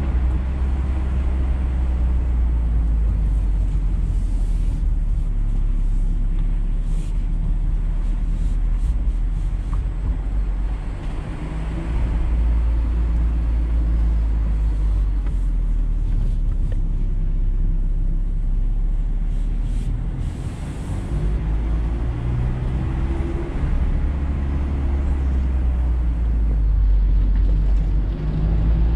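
Mazda MX-5 Miata's four-cylinder engine running under way, its pitch shifting up and down with the throttle, over steady road and wind noise in the open-top cabin.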